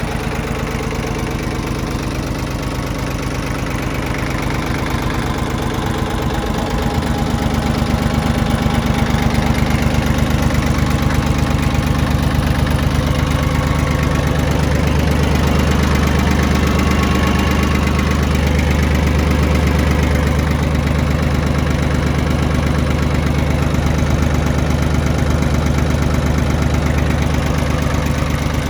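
Yanmar YM1720 compact tractor's diesel engine running steadily, its note shifting and growing a little louder about a quarter of the way in.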